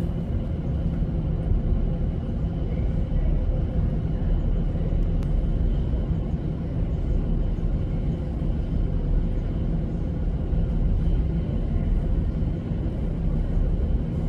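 Steady low rumble of a passenger train heard from inside the carriage, with a faint steady hum over it.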